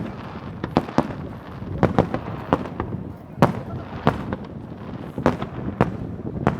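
Fireworks shells bursting in quick, irregular succession: a string of sharp bangs, about two a second, over a steady noisy background.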